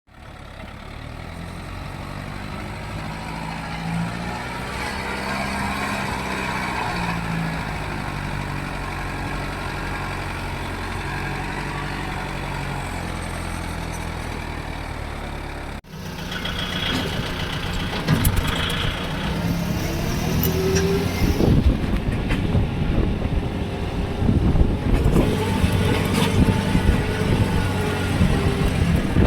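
Diesel tractor engines running: a steady low engine sound, then, after a break about halfway through, a louder, rougher run with frequent knocks and clatter.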